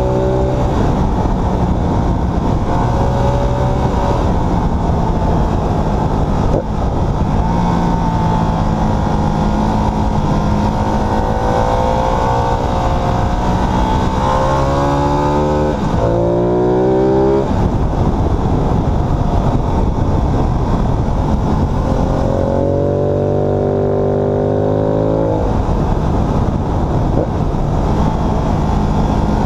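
Ducati Multistrada 1200 S's twin-cylinder engine heard from onboard at road speed, over steady wind rush. Its pitch climbs under acceleration and drops sharply at each upshift, with two quick climbs and shifts about halfway through and another near the end.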